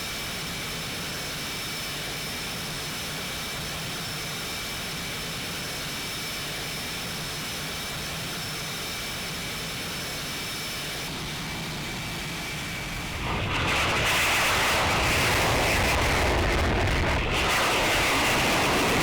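Fighter jet engine running with a steady high whine, then about 13 seconds in it jumps much louder into a full rushing jet noise, as at power-up for takeoff.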